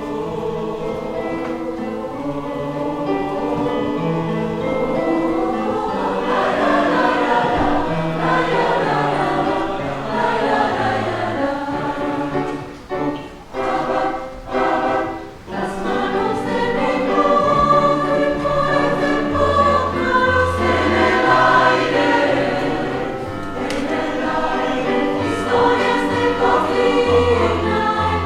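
A school choir singing in parts, with a steady low accompaniment underneath. About halfway through, the singing breaks into short, choppy phrases for a few seconds before the held lines return.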